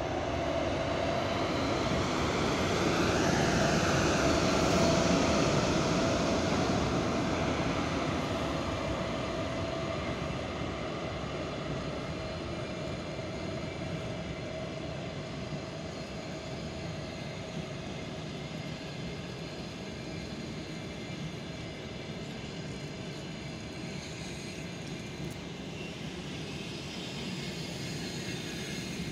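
ChS4 electric locomotive and its passenger coaches passing: a steady hum from the locomotive, loudest a few seconds in as it goes by, then the rumble and clatter of the coaches' wheels on the rails, slowly getting quieter.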